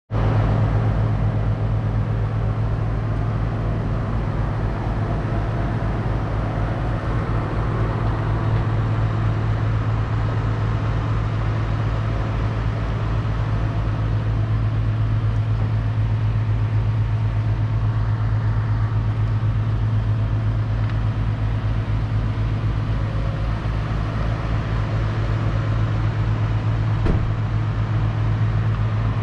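Claas Ares 656 RZ tractor's 6.8-litre six-cylinder diesel engine running steadily at an even speed, with a brief click about 27 seconds in.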